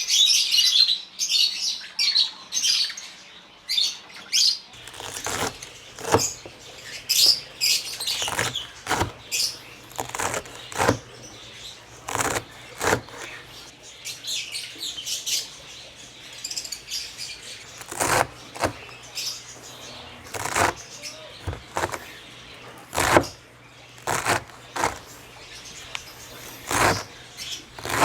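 African lovebirds chirping in an aviary, densely in the first few seconds and then in scattered short calls. Sharp knocks and flutters recur throughout, with a faint steady low hum starting about five seconds in.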